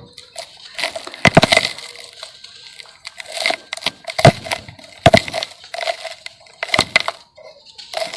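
Dry sand-cement lumps crumbling as they are crushed, in a series of crackly crunches about a second apart.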